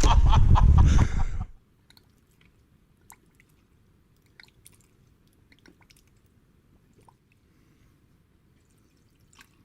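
Loud rushing ride noise from a Vespa scooter, engine and wind buffeting on the microphone, cutting off suddenly about one and a half seconds in. After that come only faint scattered clicks and taps.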